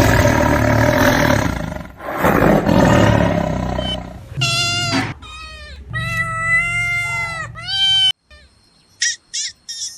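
Animal calls: two long, rough, low roaring calls, then several drawn-out pitched calls that rise and fall. A clean cut follows, then a run of short high chirps near the end.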